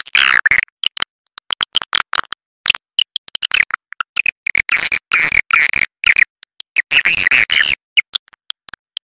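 Swiftlet call recording: rapid chirps and twittering of swiftlets in dense bursts with short gaps. It is the call sound that swiftlet farmers play through tweeters to lure swiftlets into a bird house.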